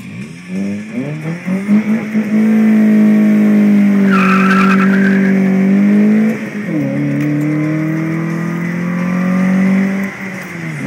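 Toyota Corolla S's 1.8-litre four-cylinder, with short ram intake and Magnaflow exhaust, blipped up and then held near the limiter in a burnout attempt. A brief tire squeal comes about four seconds in. The revs dip and climb again past halfway, and fall away near the end.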